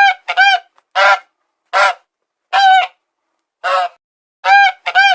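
Goose honking over and over: short, loud, nasal calls less than a second apart, some in quick pairs.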